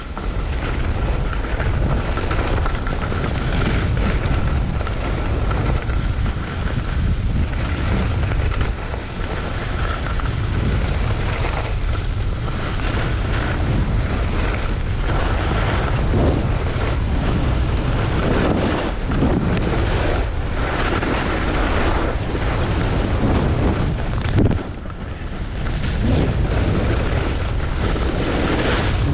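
Wind buffeting the camera microphone during a ski run downhill, with the hiss of skis on snow rising and falling through the turns.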